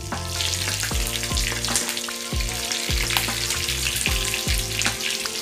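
Stuffed green bell peppers sizzling and crackling in hot oil on a flat griddle. Background music with held tones and a steady beat plays underneath.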